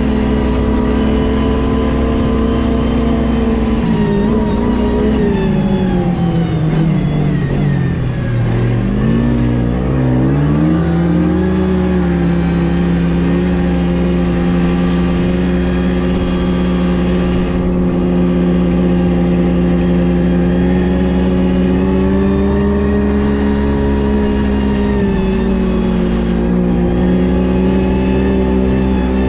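Ski-Doo GSX 600 HO snowmobile's two-stroke twin engine running under way. Its pitch drops for a few seconds as the sled slows about four seconds in, then rises again and holds steady, with a brief dip near the end.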